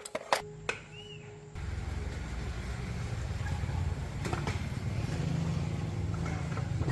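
A few sharp clicks, then a small car engine starts about a second and a half in and runs with a fast, steady low throb.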